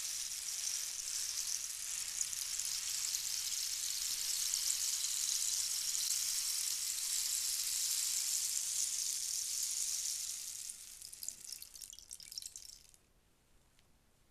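A steady, high, rain-like hiss that thins into scattered ticks about ten seconds in and stops near the end.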